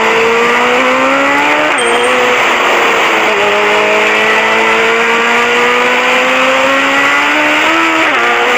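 Suzuki Hayabusa's inline-four engine through a full-system aftermarket exhaust, accelerating hard through the gears. The note climbs steadily and drops sharply with each quick upshift, about two and three seconds in and again near the end.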